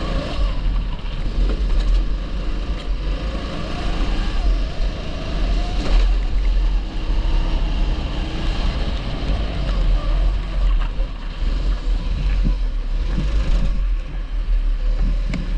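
A 270cc four-stroke rental kart engine running on track, its pitch rising and falling with the throttle, with wind rumbling on the microphone.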